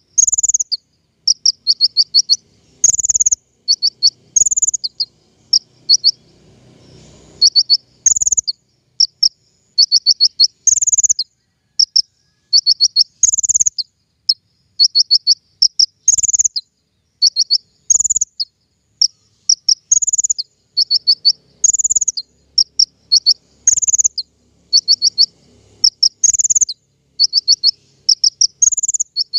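King Konin songbird singing in a loud, looped recording used as a lure and training track: high, quick runs of short notes and sharp chirps. The phrases repeat every one to two seconds.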